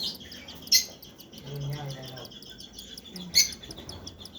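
Cockatiel chicks begging with a rapid run of high chirping while being fed. Two loud, sharp calls stand out, one under a second in and one past the three-second mark.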